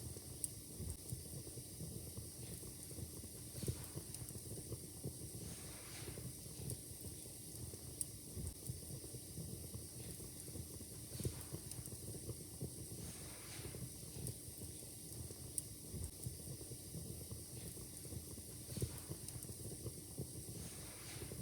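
Fire crackling in a fireplace: irregular sharp pops and snaps over a steady low rumble and hiss.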